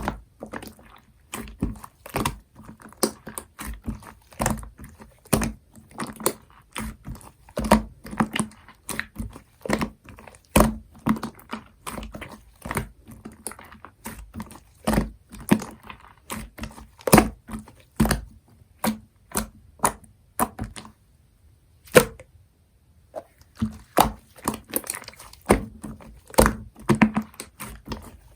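Clear slime mixed with shaving foam being squeezed and kneaded by hand, giving a run of irregular sticky clicks and pops. The handling pauses for about three seconds in the last third, broken by a single click, then goes on.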